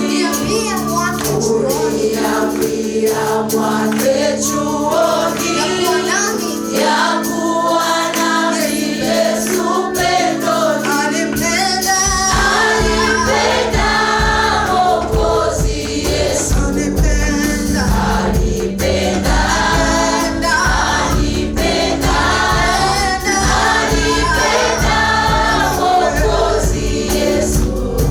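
A gospel choir singing a praise song in harmony over held keyboard chords. A bass line comes in about twelve seconds in and fills out the sound.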